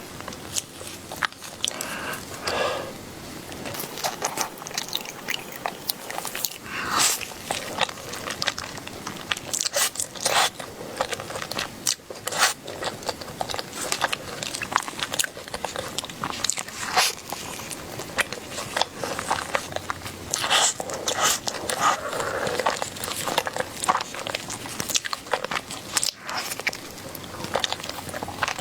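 Close-miked eating: someone biting and chewing food, with many irregular sharp crunchy clicks throughout.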